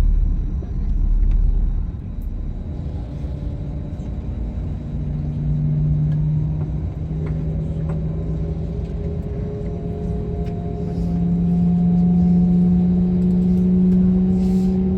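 A deep rumble and a steady engine hum heard from inside an airliner cabin. The hum's pitch creeps slowly upward, and it grows louder near the end.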